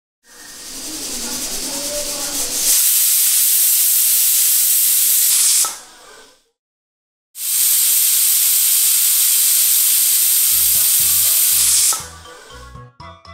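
Pressure cooker whistle blowing off steam twice, each time the cooker venting at full pressure. The first long hiss builds up over a couple of seconds and stops about six seconds in. The second starts a second later and cuts off near the end, followed by light music.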